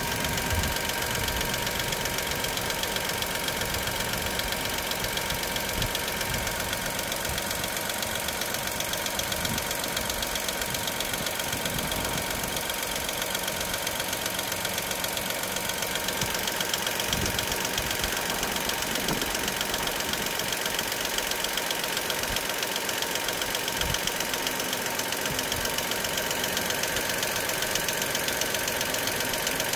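Dacia Sandero SCe 75's 1.0-litre three-cylinder petrol engine idling steadily with a fast, regular ticking: the ticking-at-idle problem the owner is recording.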